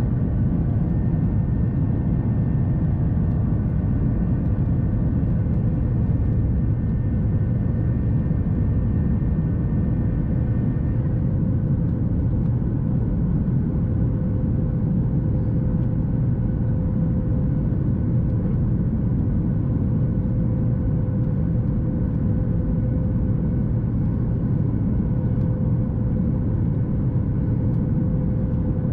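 Cabin noise inside a Boeing 737 MAX 8 with its CFM LEAP-1B engines running: a steady low rumble with a thin steady whine on top. Some of the higher whine tones fade out about eleven seconds in.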